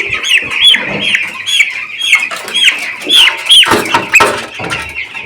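Two-week-old chicks peeping loudly, a rapid run of short calls that each fall in pitch, several a second.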